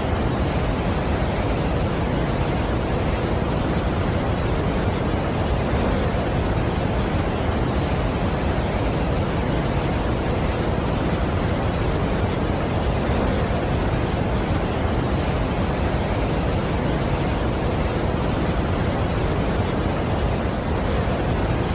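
Steady, unbroken rush of a large waterfall: dense falling-water noise, heaviest in the low end.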